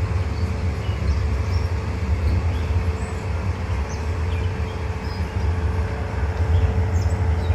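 Amusement-park train rolling along, heard from on board: a steady low rumble with a faint steady hum.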